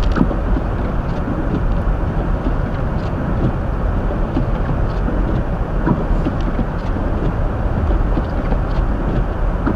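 Steady road and tyre noise with a low rumble from a 2023 Hyundai Elantra driving slowly on a snow-covered road, heard from inside the cabin.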